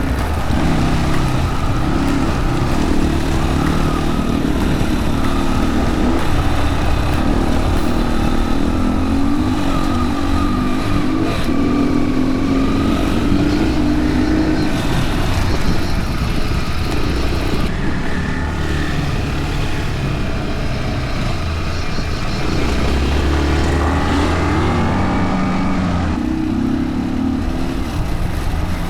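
Yamaha WR155R's single-cylinder dirt bike engine running on a rough trail, its pitch rising and falling again and again as the throttle is opened and closed.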